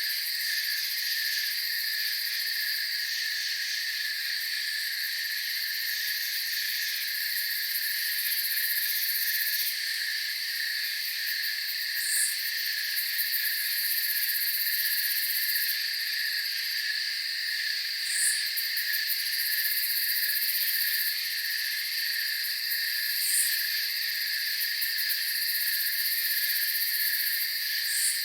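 Night chorus of crickets trilling steadily in several high pitches, with a brief, higher chirp standing out four times, about every five to six seconds.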